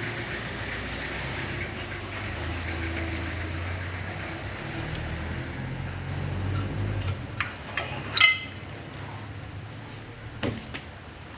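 Metal tools and parts clinking during hand work: a few light clicks, then one loud ringing metal clank about eight seconds in, and another knock near the end. Under them is a low steady hum that dies away about seven seconds in.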